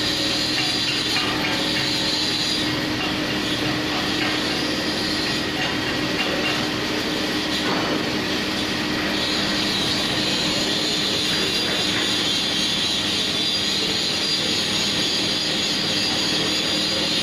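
Steady machine noise: a constant hum with a hiss above it, holding one level.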